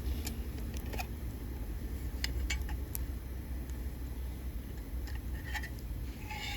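Wood fire burning, with scattered sharp crackles and pops at irregular intervals over a steady low rumble.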